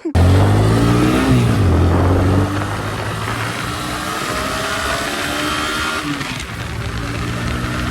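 Motorcycle engine under way, its note dropping over the first two seconds as the rider eases off, then running steady, with wind rush on the microphone.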